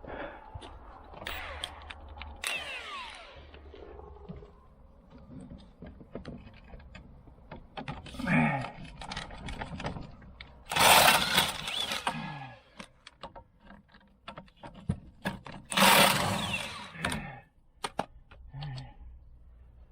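Power tool run in two loud bursts of about a second and a half each, around 11 and 16 seconds in, each winding down with a falling tone as it stops. Scattered light metal clanks come between, from work loosening the strut fasteners.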